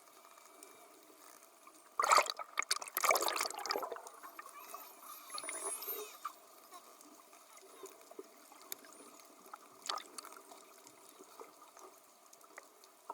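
Water splashing and sloshing around dolphins at the sea surface, with a loud burst of splashing about two seconds in lasting a couple of seconds, and scattered small splashes and clicks after it.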